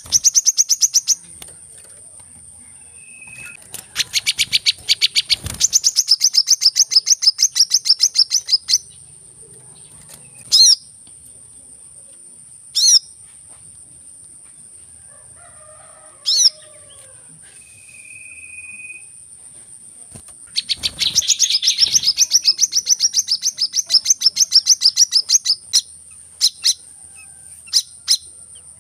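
Sunbird calls: long trills of rapid, high, evenly repeated chirps lasting several seconds each, with single sharp notes and short whistles between them. A steady, very high whine runs underneath.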